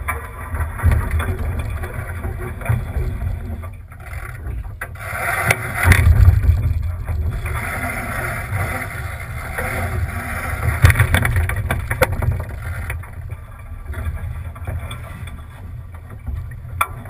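Wind buffeting the microphone of a camera on a sailboat under way, with water rushing along the hull. The rumble swells in strong gusts about five to seven seconds in and again around eleven seconds.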